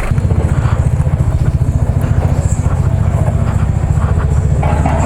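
Motorcycle engine of a 765 cc superbike running steadily at low speed, a rapid, even pulsing that sets in right at the start.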